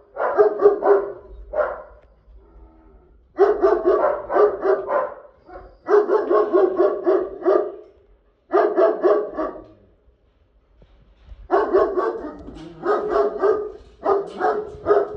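Dog barking in quick runs of several barks, about five a second, each run lasting one to two seconds with short pauses between them.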